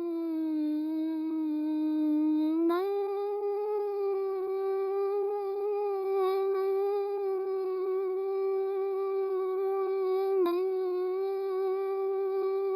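Synthetic AI voice holding one long, steady hum-like note. The pitch steps up a little about three seconds in and then holds level, with a brief wobble near the end.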